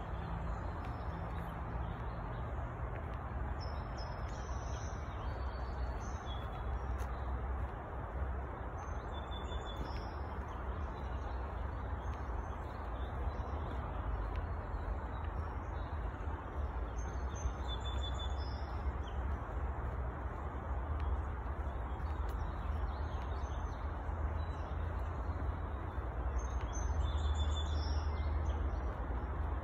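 Birds chirping in short high calls every few seconds, over a steady low rumble and hiss.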